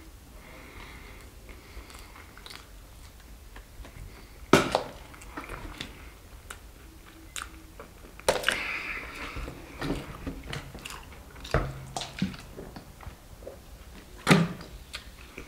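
Close-up chewing and biting of breaded fried chicken: wet mouth noises with scattered sharp crunches and clicks, the loudest about four and a half seconds in, around eight seconds in, and shortly before the end.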